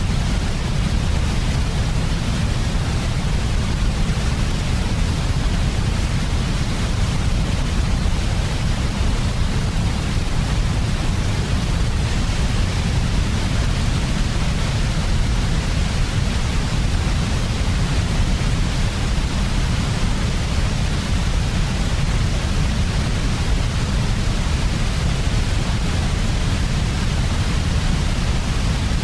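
Steady, unbroken white noise for sleep: an even hiss with a strong low-end rumble and no changes.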